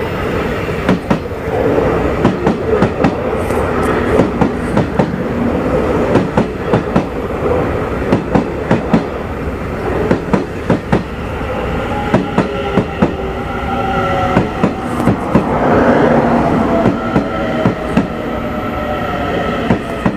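Train rolling through a station, its wheels clacking over rail joints in a continual run of sharp clicks over a steady rumble. A whine of several tones rises over the rumble from about twelve seconds in.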